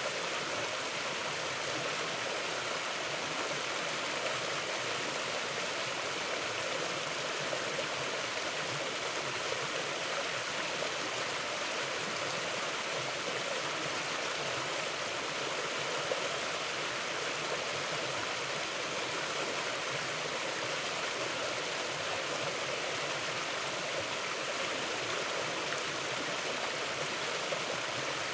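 Mountain river flowing over rocks: a steady, unbroken rush of running water.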